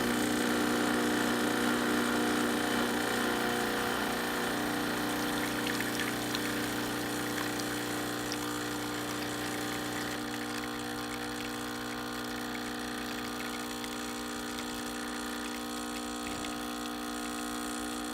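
Pump of a La Pavoni Napolitana espresso machine humming steadily while it pulls a shot of espresso. About ten seconds in, its lower tones drop away and it runs a little quieter.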